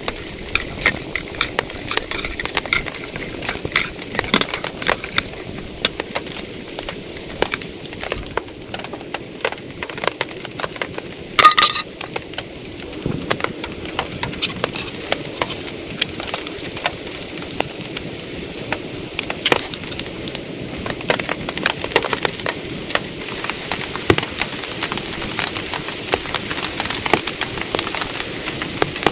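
Heavy rain falling steadily, with many close drops ticking sharply on a hard surface. Once, a little before the middle, a brief sharp knock stands out louder than the rain.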